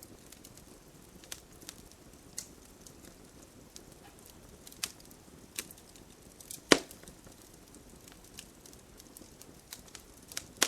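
Campfire burning: wood crackling with irregular sharp pops over a faint steady hiss, one louder pop about two-thirds of the way through.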